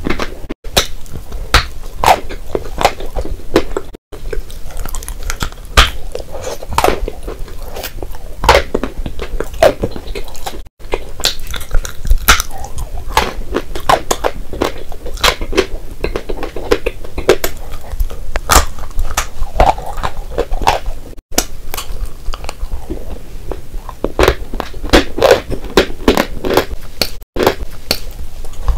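Close-miked biting and chewing of chalk and clay chunks: a dense run of sharp crunches and crackles, several a second. The sound breaks off for an instant a few times.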